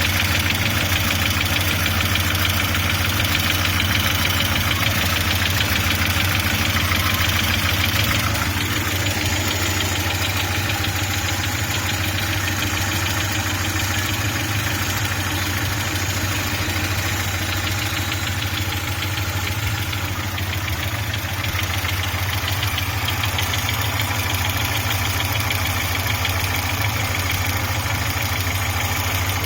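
Audi 80 B3 engine idling steadily with a fast, regular knock, the fault the owner is showing. The tone of the sound shifts about eight seconds in and again about two-thirds of the way through.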